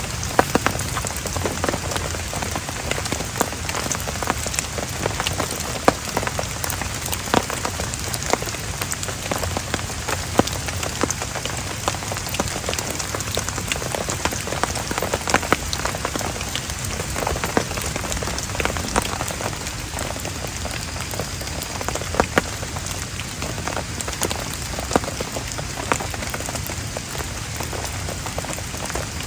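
Heavy rain falling steadily, with many separate drops striking sharply close by over a dense hiss.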